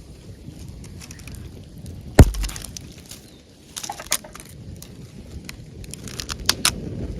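Wood campfire burning in a fire stand, crackling with many small sharp snaps over a low rumble. A loud crack about two seconds in, a burst of crackles around four seconds, and two sharp pops near the end.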